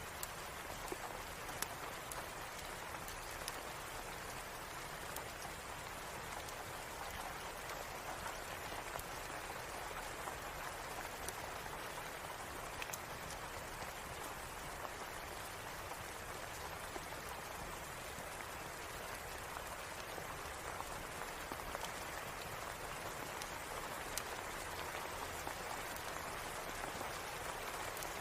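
Steady rain: an even hiss of falling rain with scattered sharp ticks of single drops.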